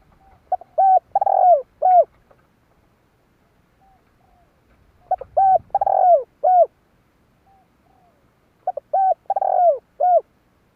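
Spotted dove cooing its song, the call used as a decoy to provoke wild males: three phrases about four seconds apart, each a few short coos around one longer drawn-out coo, with faint softer coos between the phrases.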